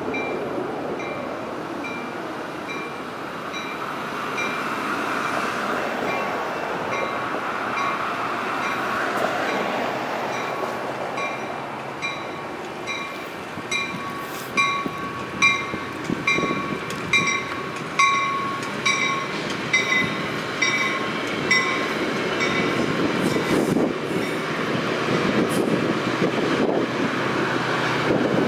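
Railroad crossing bell ringing in a steady quick rhythm as a Metra bilevel commuter train rolls past, with wheels rumbling and knocking about once a second over rail joints in the middle. The train noise swells near the end as the diesel locomotive pushing it comes closer.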